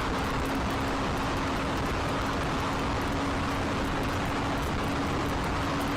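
Steady road and engine noise of a moving car, heard from inside the cabin, with a constant low hum running through it.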